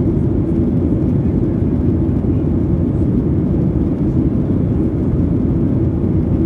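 Steady low rumble of a Boeing 737-800 jet airliner heard from inside the cabin: engine and airflow noise, even and unchanging.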